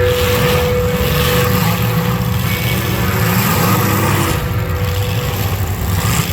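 Demolition derby car engines running loudly and roughly, without a break.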